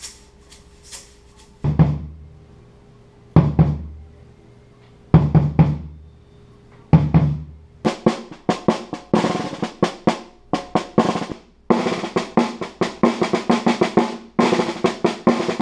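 Drum kit being played: a few light taps, then four heavy low hits about every second and three-quarters, then fast rolls and fills from about eight seconds in, with a brief break near twelve seconds.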